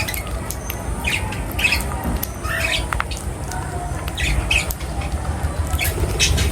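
Several small birds squawking and chirping in short, repeated calls over a steady low rumble.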